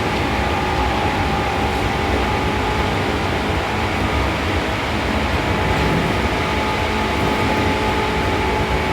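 Seibu New 2000 series electric commuter train running at a steady speed: an even rumble of wheels on rail with a few faint steady tones.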